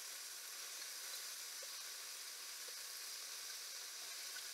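Moose sausages sizzling steadily as they fry in a pan, with a couple of faint ticks.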